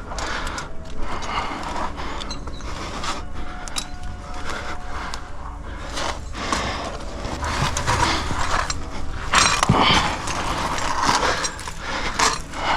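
Climbing sounds in a sandstone chimney: clothing and body scraping and rubbing on the rock, with irregular clicks and jangling of metal climbing gear such as carabiners and slings.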